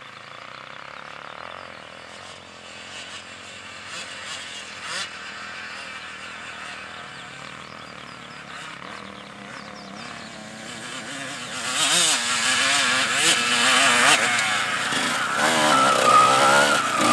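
Dirt bike engine revving up and down under load on a steep hill climb, faint at first and growing much louder about twelve seconds in, holding a high steady note near the end.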